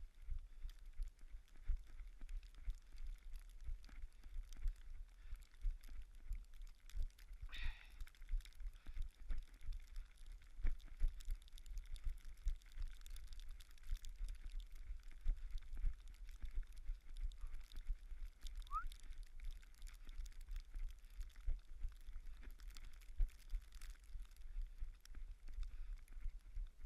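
Running footsteps on a snowy trail: a steady rhythm of muffled footfalls, about two to three a second, jolting a body-worn action camera.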